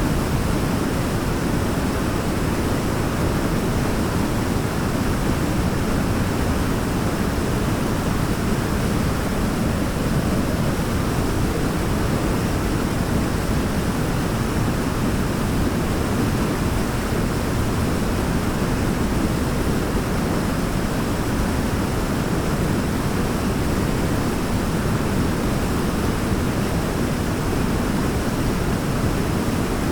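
Waterfall: a steady, deep, even rush of falling water that does not change.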